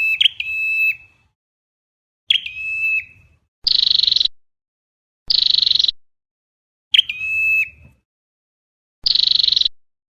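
Recorded calls of a red-headed flowerpecker played on a loop as a trapping lure. Short calls come about once a second, alternating between a harsh buzzy chatter and a clear whistled note that drops, then holds steady.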